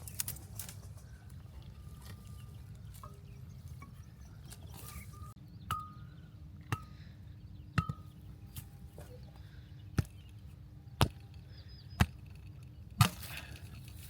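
A series of sharp strikes, about one a second, starting a few seconds in, with a steady low hum underneath.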